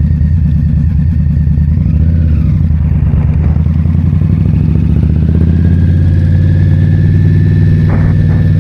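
Indian Scout Bobber's V-twin engine running steadily while the motorcycle is ridden along, easing briefly about two seconds in.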